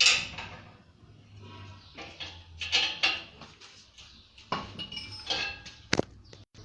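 Metal tools clinking and knocking against a central-heating boiler's tie rods and fittings as the rods are tightened: several scattered sharp hits, with one short crisp knock near the end.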